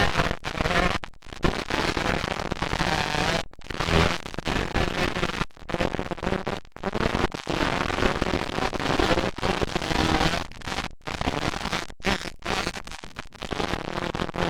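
Motocross dirt bike engines running hard on the track, picked up as loud, distorted crackling, with the sound cutting out briefly again and again.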